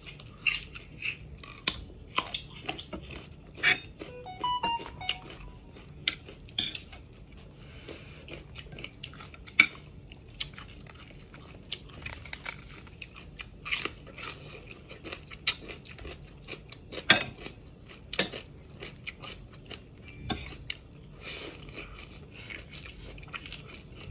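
Raw carrot and green bell pepper being bitten and chewed close to the microphone: an irregular run of sharp crisp crunches.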